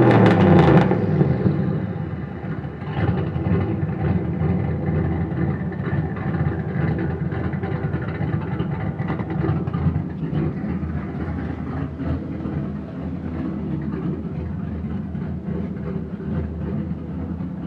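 Boosted Fox-body Mustang engine coming down from a throttle blip in the first second or two, then idling steadily with an even pulse, running with a slight exhaust leak.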